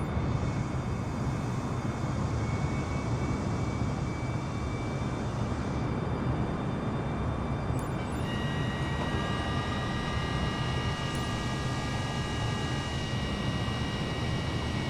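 Airbus A320neo jet engines at takeoff power: a steady rush of engine noise with several high, steady whining tones, and a new set of whine tones that comes in about eight seconds in.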